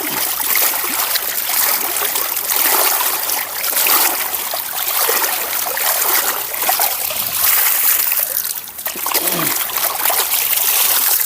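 Running stream water trickling and splashing while mud is rinsed off in it, the level rising and falling unevenly.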